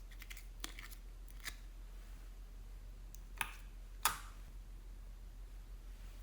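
Slime being handled: a few small sticky clicks, then two sharper snaps about three and a half and four seconds in, the second the loudest.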